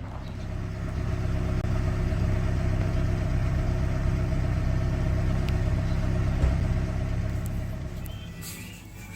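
A motor vehicle running with a steady low engine rumble. It grows louder over the first second or so, holds, and fades away near the end.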